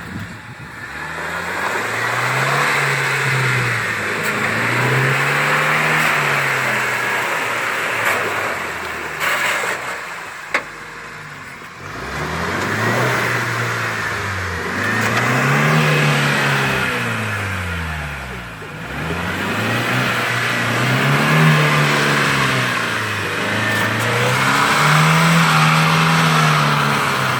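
Off-road 4x4's engine revved up and down over and over while the vehicle works through deep mud, with a quieter lull about ten seconds in. It sounds like a vehicle struggling to get through or out of the mud.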